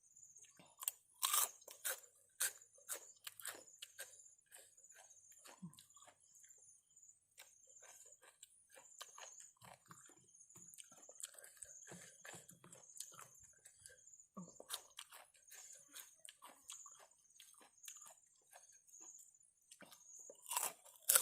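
A person chewing and crunching food close to the microphone: spicy seafood papaya salad with raw vegetables. The crunches come irregularly throughout, louder in a cluster about one to two seconds in.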